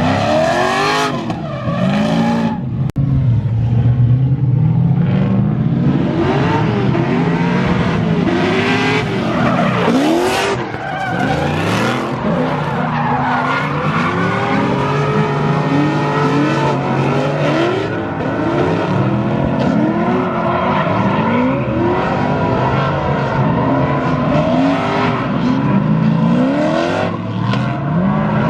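Drift cars sliding around the track, their engines revving up and down over and over, several at once, with tyre squeal and skidding throughout.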